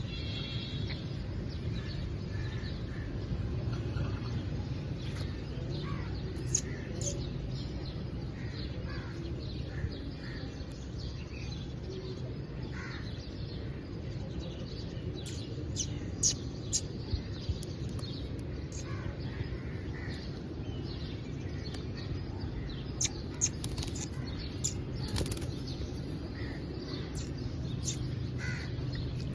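A green pet parrot bathing: it flaps and shakes its wet wings in short, quick flurries that come in several clusters. A steady low hum runs underneath.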